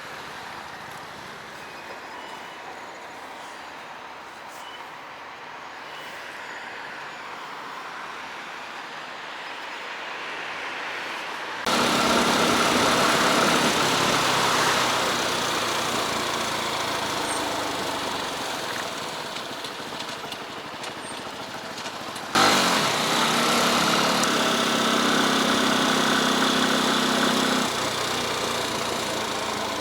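Motorcycle engine running while under way, mixed with wind and road noise. It starts quieter and slowly builds, then jumps abruptly louder twice at edit cuts, with a steady engine drone that stops suddenly near the end.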